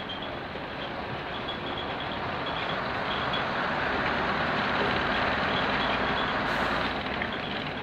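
Class 121 diesel railcar running along the line, heard from on board: a steady mix of engine and wheel-on-rail noise that grows louder for a few seconds in the middle, then eases.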